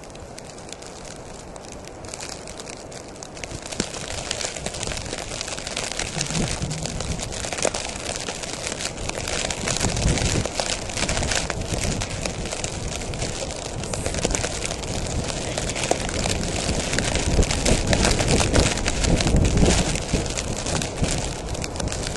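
Snow crunching and crackling in a blizzard, with gusts of wind buffeting the microphone, growing louder after a few seconds.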